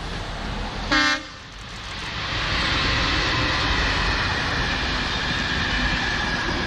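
Škoda class 242 electric locomotive giving one short horn blast about a second in, then its passenger coaches rolling past close by with a steady rush of wheels on rail.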